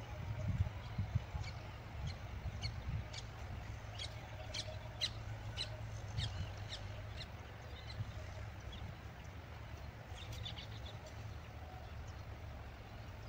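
Small birds chirping in short, sharp high notes, thickest in the first half and again near the end, over a steady low rumble.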